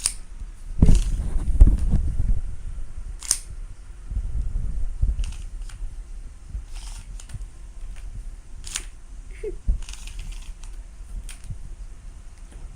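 Tape measure being played with: several sharp clicks of the blade snapping back into its case, spread a few seconds apart, between low bumping and handling noise.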